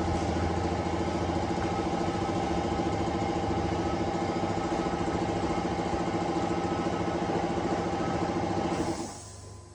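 A motor running steadily at a constant speed, then switched off about nine seconds in and quickly winding down.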